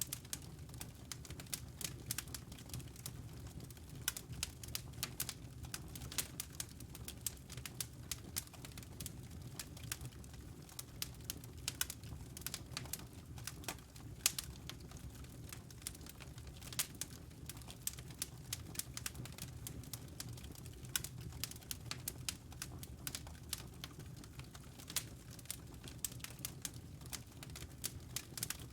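Wood fire burning in a fireplace: dense, irregular sharp crackles and pops over a steady low rumble of the flames.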